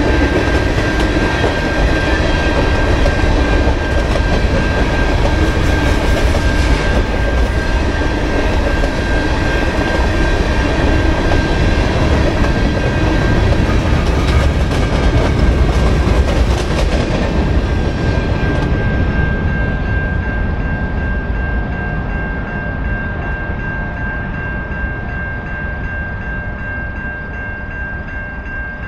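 Train passing close by: steady rumble and rail noise with a sustained high tone above it, fading over the last ten seconds as it moves away.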